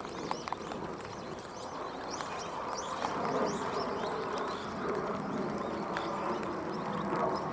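Barn swallows twittering: a run of quick, high chirps in the first few seconds, over a steady background noise that grows louder about halfway through.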